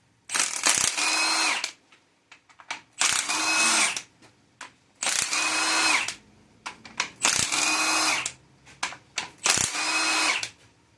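Electric power tool, drill or driver type, run in five short bursts about two seconds apart, each at a steady motor pitch, as it works on the fasteners of a 13B rotary engine during teardown.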